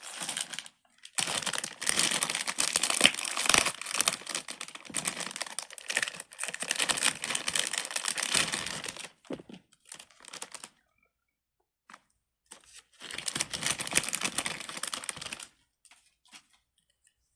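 Silicone pop-it fidget bracelet bubbles being pressed in quick succession, a rapid run of crackly popping clicks. It comes in two runs, a long one of about eight seconds and a shorter one of two to three seconds near the end.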